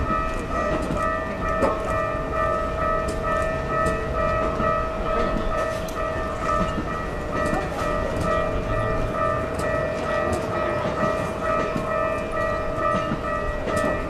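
Keikyu train sounds: a low rumble with a steady, high ringing tone held the whole time and scattered light clicks.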